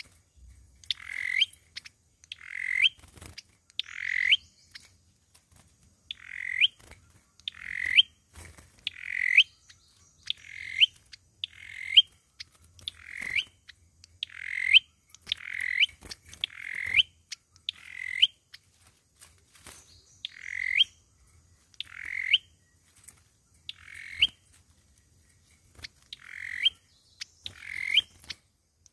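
A sâu dừa songbird calling over and over: short, loud notes that sweep sharply upward in pitch, roughly one every second and a half, with a brief pause about three-quarters of the way through.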